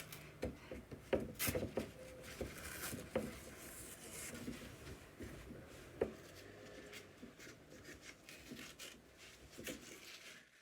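Damp shoji paper being peeled and scraped off a wooden lattice frame, its rice-paste glue softened with water: irregular rubbing and scratching with scattered light knocks, a sharper one about six seconds in.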